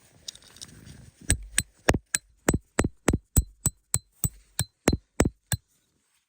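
Hammer blows on metal, about fifteen quick, even strikes with a short ring after each. They start a little over a second in and stop abruptly near the end.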